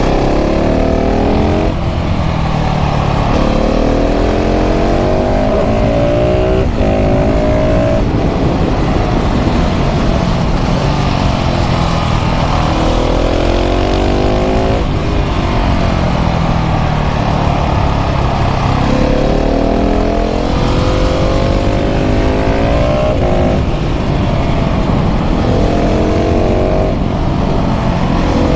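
KTM 690 SMC R's single-cylinder LC4 engine through a full LeoVince exhaust, accelerating hard up through the gears. Each rise in pitch breaks off sharply at an upshift, and the pitch falls away as the bike slows, over and over.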